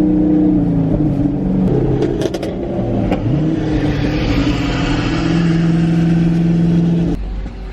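Loud car engine revving hard: its pitch steps down, dips about three seconds in and climbs again, holds high and steady, then cuts off suddenly about seven seconds in.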